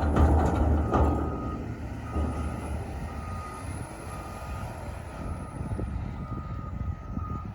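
Front-end loaders' diesel engines running while pushing snow. A backup alarm beeps steadily, roughly once a second, from about a second in. A few clunks come near the start.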